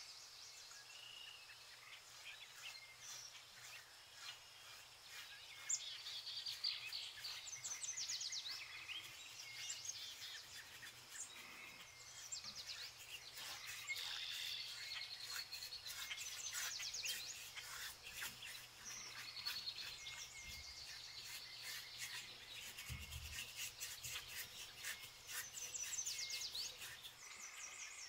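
Several small birds chirping and singing in quick repeated trills, over faint rapid light clicks that grow thicker in the second half.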